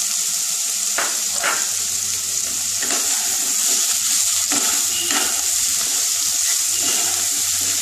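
Drumstick (moringa pod) pieces sizzling steadily in hot oil in a frying pan, with a wooden spatula stirring and scraping them around the pan a few times.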